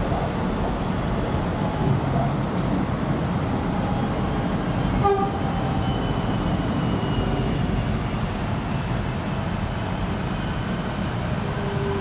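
Steady rumble of an X'trapolis 100 electric train's wheels and running gear heard from inside the carriage, with another train passing alongside about halfway through. A brief pitched note sounds about five seconds in, and a faint whine runs through the second half.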